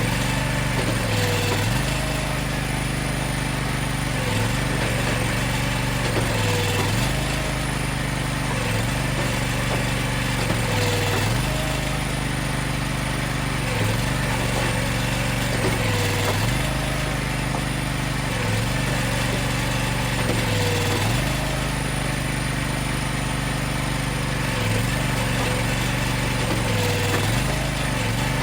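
Engine of hydraulic firewood-processing equipment running steadily, its speed dipping briefly and recovering about every two to three seconds as load comes on and comes off with each working stroke.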